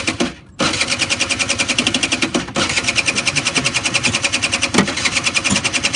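Small petrol engine of a student-built fuel-economy car running with a fast, even beat while it draws its fuel from a glass measuring vessel during a fuel-consumption test. It cuts out briefly about half a second in, then picks up again and runs on.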